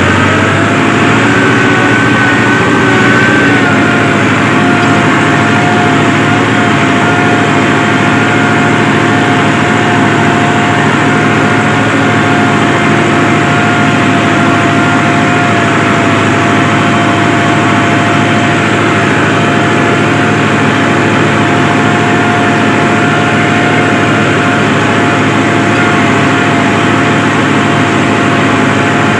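Massey Ferguson 385 tractor's four-cylinder diesel engine running steadily under way, in four-wheel drive, with a steady whine over the engine note.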